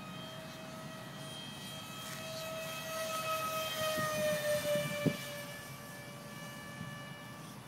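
Electric ducted fan of an RC model jet running at steady high throttle: a high whine with several overtones. It grows louder and drops slightly in pitch around the middle, with one sharp click about five seconds in.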